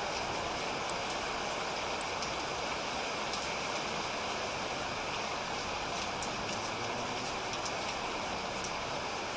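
Steady rain falling, an even hiss with a few sharp ticks of drops, two of them clearer about one and two seconds in.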